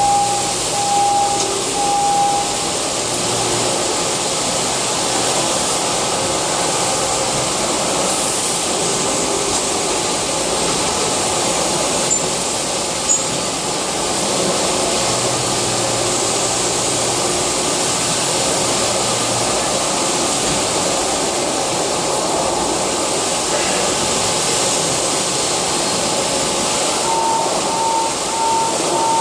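CNC lathe running: a steady mechanical hiss and hum, with a pulsing tone near the start and again near the end, and two short clicks around the middle.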